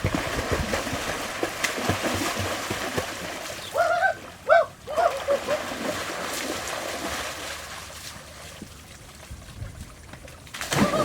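Water splashing and sloshing in a swimming pool, busiest in the first few seconds and then settling to a quieter wash. A few short, high calls break in about four to five seconds in.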